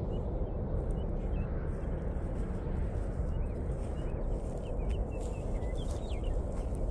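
Small birds giving short, high chirping calls, more often in the second half, over a steady low rumble.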